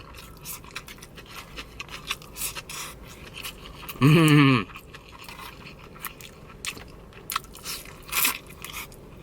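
Close-up chewing and biting sounds of a person eating tandoori chicken, a scatter of small wet clicks and crunches. About four seconds in, the eater makes one brief voiced sound that falls in pitch.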